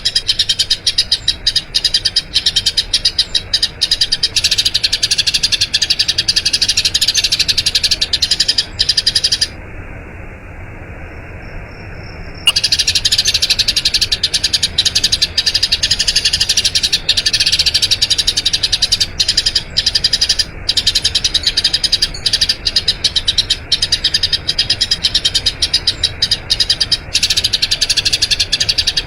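Eurasian tree sparrow chirping in a rapid, continuous rolling stream of high notes. The chirping breaks off for about three seconds near the middle, then resumes just as densely.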